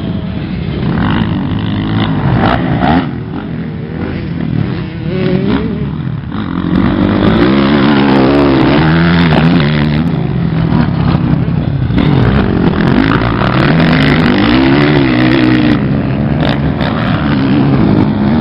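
Honda CRF450R dirt bike's single-cylinder four-stroke engine revving up and down while being ridden on a motocross track, its pitch rising and falling with each throttle change. It gets louder and steadier from about seven seconds in.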